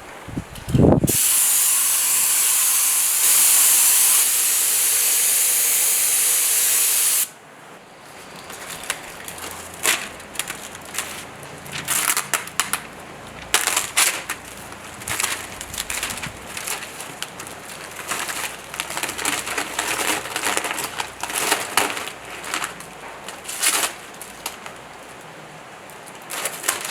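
Air spray gun hissing steadily as paint is sprayed, cutting off suddenly after about six seconds. It is followed by a long run of scattered light clicks and knocks.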